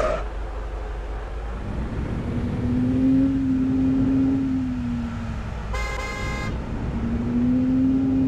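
Heavy truck engine revving under load in two surges, rising in pitch and then settling. A horn gives one short blast about six seconds in.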